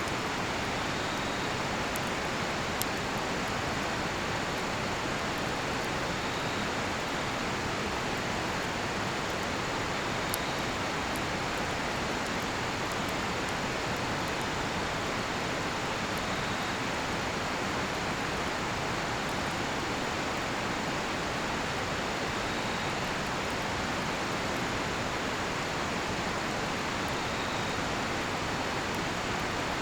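Steady rushing of a nearby river, with a few sharp crackles from a cedar-wood campfire about two, three and ten seconds in. Faint, high insect chirps recur every few seconds.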